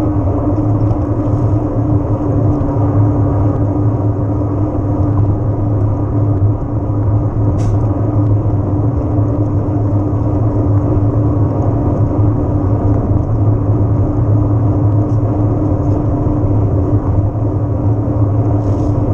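Steady rush and rumble of riding an electric mountain bike, as picked up by a camera microphone on the move, with a constant low hum underneath and a couple of brief clicks.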